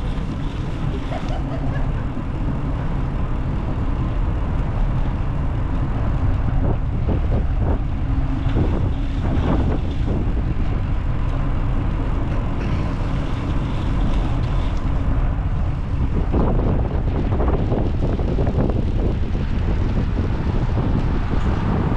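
Wind buffeting the microphone on a moving ride, a steady low rumble with brief rustling flurries.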